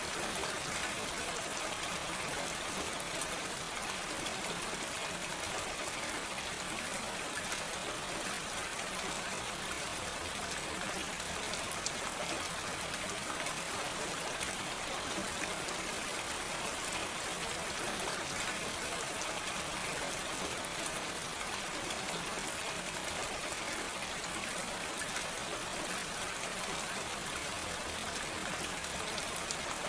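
Steady gentle rain falling, an even hiss of many drops with small scattered pattering ticks and no thunder.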